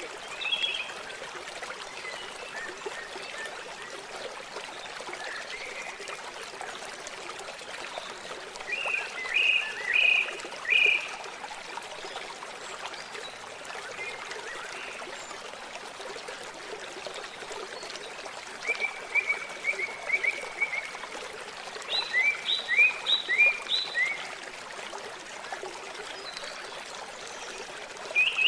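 Steady, gentle running water, with a bird singing short phrases of quick chirps over it: one near the start, one about nine to eleven seconds in, a rapid trill near twenty seconds, and another run of chirps just after.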